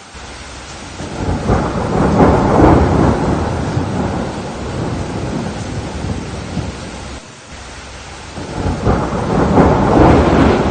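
Steady rain with two long rolls of thunder, the first swelling about a second in and fading by the middle, the second building up toward the end.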